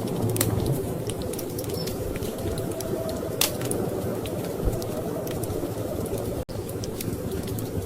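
Wood fire crackling with scattered sharp pops over a steady low rumble of storm wind. The sound drops out for an instant about six and a half seconds in.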